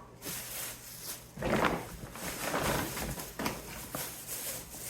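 Grocery items being handled and set down: irregular rustling and light knocks.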